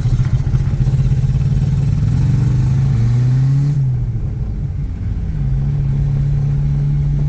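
Suzuki Escudo's engine running loudly under load. Its note climbs steadily, drops sharply about four seconds in as it shifts or comes off the throttle, then holds an even pitch.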